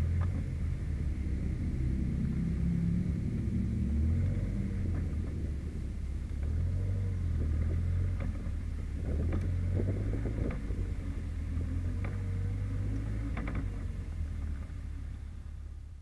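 Westfield sports car's engine rumbling steadily at low revs while the car is driven slowly, heard from the open cockpit. A few short clicks and knocks come through about halfway in, and the sound eases off near the end.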